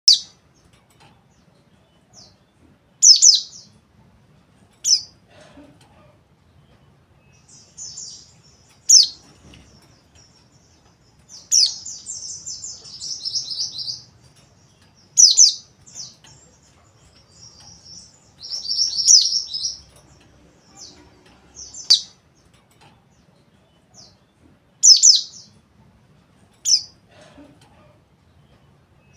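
Mountain white-eye (pleci monty) calling: sharp, high single chirps every few seconds, broken twice by longer runs of rapid, rough twittering (the 'ngeriwik kasar').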